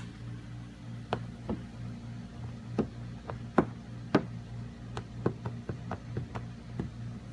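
Irregular light taps and knocks, about a dozen spread unevenly, over a steady low hum.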